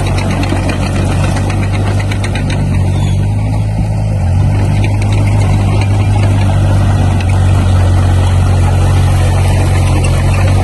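Diesel engine of heavy construction machinery running steadily with a low drone, getting slightly louder about four seconds in.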